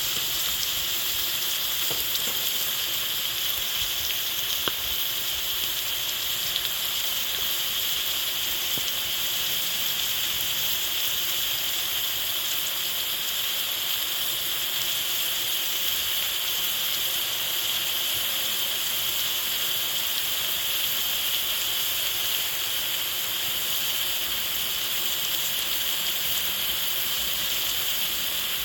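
Food frying in hot oil in a cooking pot: a steady sizzle with a few faint clicks.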